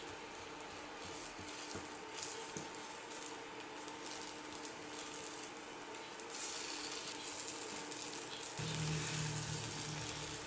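Food sizzling in a frying pan, a steady hiss that grows louder about two-thirds of the way through. Soft piano music comes in near the end.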